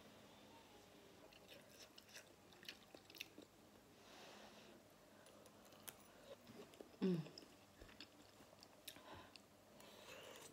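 Faint chewing and wet mouth clicks of a person eating meat and noodles, with a short falling tone about seven seconds in.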